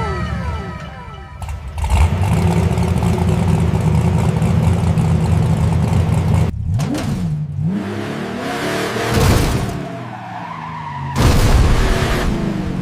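Cartoon motor-vehicle engine sound effect running steadily, with a dip and rise in pitch a little past halfway and two loud surges of noise near the end.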